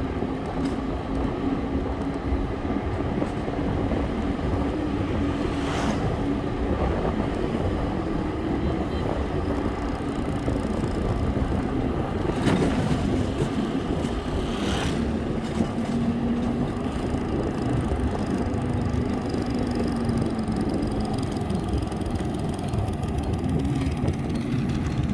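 Steady road and wind noise from riding a bike, with a low steady hum that shifts slightly in pitch and a few short clicks.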